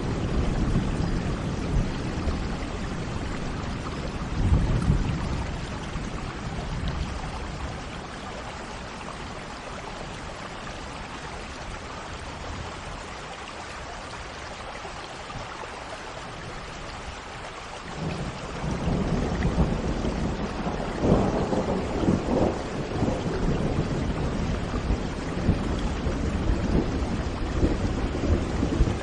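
Steady rain with rolling thunder. The low rumble swells near the start, dies down through the middle, then builds again and stays loud from about two-thirds of the way through.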